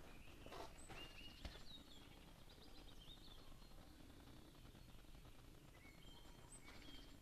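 Near silence with faint, scattered short bird chirps, and a few soft knocks in the first second and a half.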